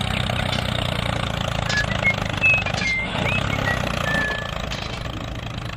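Engine of a miniature model tractor or truck running steadily, with a few short high-pitched chirps over it.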